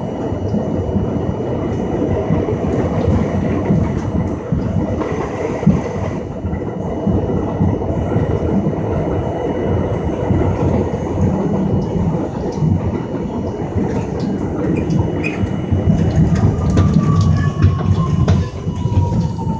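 An R42 subway train running between stations, heard from inside the car: a steady rumble of wheels on rail with clicks over the rail joints. Near the end, a whine starts and falls in pitch as the train begins to slow.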